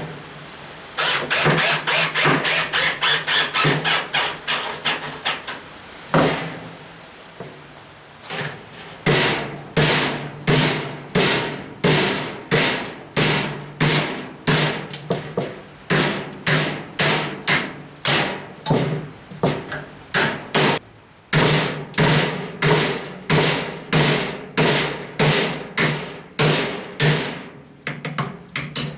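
Hammer blows, pounding mounted pieces down to bend them into a hook. A fast run of about five strikes a second comes first, then after a pause a steady beat of about two strikes a second.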